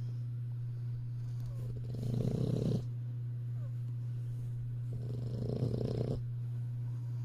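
English bulldog puppy snoring: two long snores about three seconds apart, over a steady low hum.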